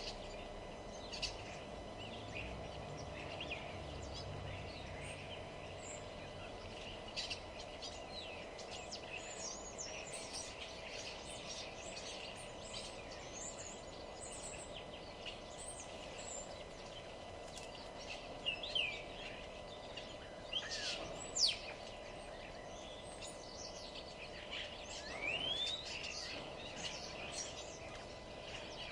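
Several wild birds singing and calling, with short chirps and quick rising and falling whistles scattered throughout. Underneath is a steady low background hum.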